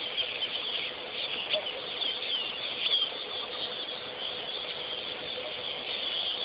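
Many small birds chirping together in a dense, steady chorus, with a faint steady hum underneath.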